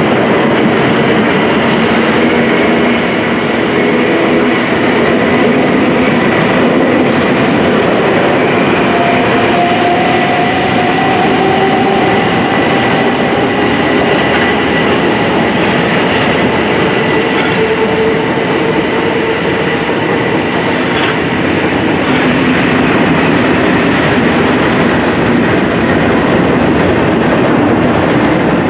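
Several trains passing close on a multi-track main line: electric multiple units running by with wheels clattering over the rails, a steady high whine and a short rising tone, mixed with a pair of Class 37 diesel locomotives with English Electric V12 engines passing at the head of a test train.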